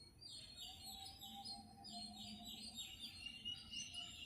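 Faint small-bird chirping: a quick run of short, falling high chirps, about four a second, then a held high note near the end. A faint steady low tone sits underneath through the middle.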